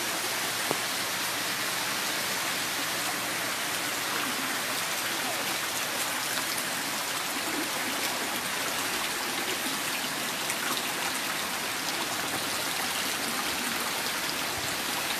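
Heavy tropical rain falling steadily: a dense, even hiss with a few scattered drop ticks.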